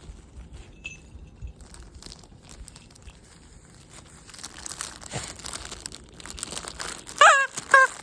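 A dog tearing and crinkling a plastic packaging bag with its teeth. Near the end, two loud, short squeaks from a squeaky toy.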